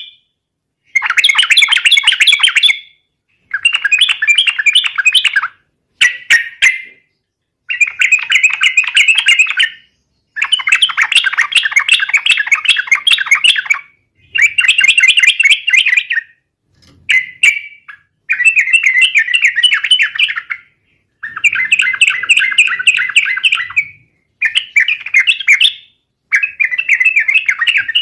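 Yellow-vented bulbul (trucukan) singing in full 'gacor' form: repeated bursts of fast, chattering, warbling song, each one to three seconds long with brief pauses between, about eleven phrases in all.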